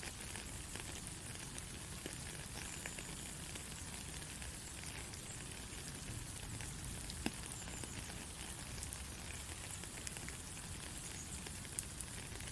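Steady rain falling, a dense hiss with scattered close drop ticks and a low rumbling undertone.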